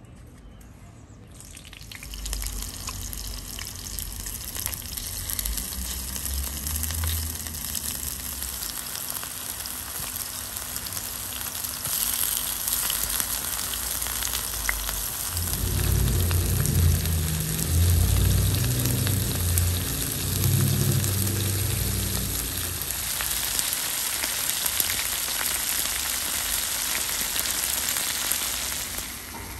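Potato and tomato slices sizzling in oil on a hot stone slab. The sizzle starts about two seconds in as the slices go down, and a low rumble comes and goes underneath.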